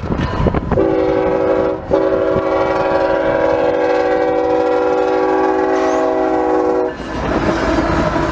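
Diesel locomotive air horn sounding a multi-note chord: a short blast, then a long steady one of about five seconds. Rolling train noise follows near the end.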